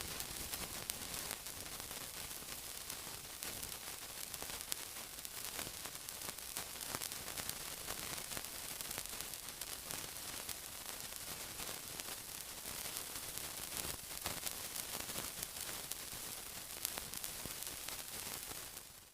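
Sizzling: a dense, high hiss full of small crackling pops, cutting off abruptly at the end.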